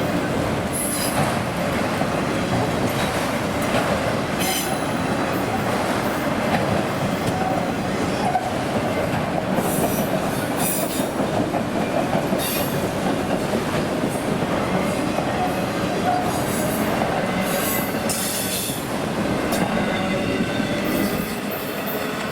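A freight train's cars roll past steadily, with loud continuous rolling noise and repeated short, high-pitched wheel squeals from the steel wheels on the rails.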